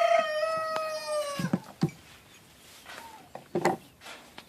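A rooster crowing: one long held note that drops slightly and ends about a second and a half in. A couple of low knocks follow, then a short sharper sound near the end.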